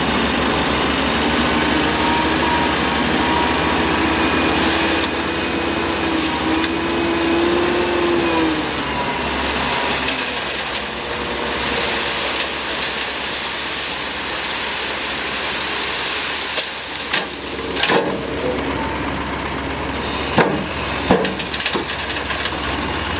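Excavator working: the engine and hydraulics run steadily, with a held whine for the first several seconds, and a run of sharp knocks and clanks in the second half.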